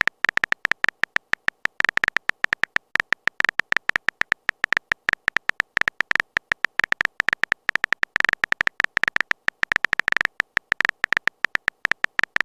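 Chat typing sound effect: a fast, irregular stream of short, high-pitched clicky beeps, like keys being tapped as a message is typed out.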